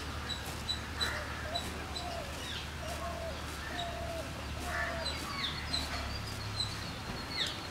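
Birds calling in the background: a short high chirp repeats two to three times a second over lower calls that recur about once a second, with a few falling whistles near the end. A steady low hum runs underneath.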